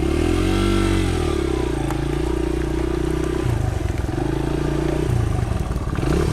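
Small dirt bike engine running under a rider, its note rising and falling repeatedly with the throttle.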